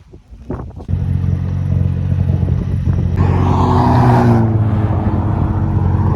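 A Honda's engine is held at steady high revs against a two-step launch limiter, cutting in sharply about a second in. A louder rushing burst comes partway through while the revs stay level.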